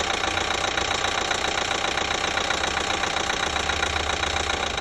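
2012 Chevy Equinox 2.4 L four-cylinder engine idling with a rapid, steady ticking knock. The owner places the knock at the top of the engine rather than the rods; it started about ten miles after a new timing chain was fitted.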